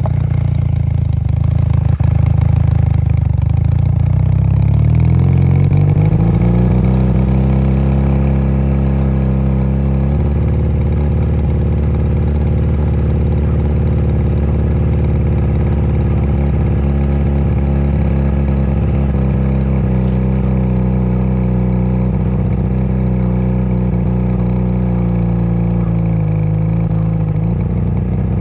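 Old Honda motorcycle engine driving a homemade ski tow rope, given more gas: its pitch climbs over the first several seconds, then it holds steady at higher revs, with a brief drop in revs near the end before picking back up.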